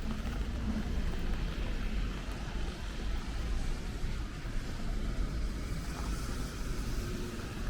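Rainy city street ambience: a steady hiss of rain and traffic on wet roads over a low rumble.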